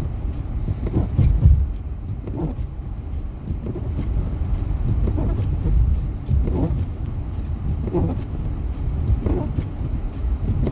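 Low steady road and engine rumble inside a vehicle's cabin, with windshield wipers sweeping snow about every one and a half seconds.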